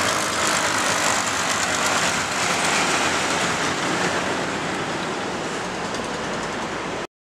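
A train running away along the tracks below, a steady rumbling noise that slowly fades, then cuts off suddenly near the end.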